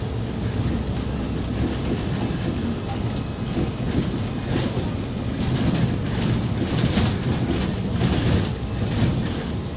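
Interior of a moving MAZ 203 city bus: a steady low engine and road rumble, with frequent short rattles and clicks from the body and fittings.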